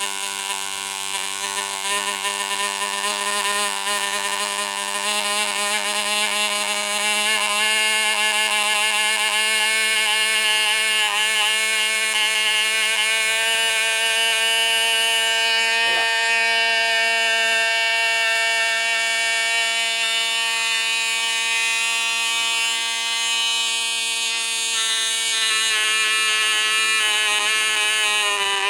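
Small vintage model glow-plug engine (three-piece piston, small bore) running at high speed with a steady high-pitched buzz, picking up a little about seven seconds in. It is running backwards, turning the wrong way round.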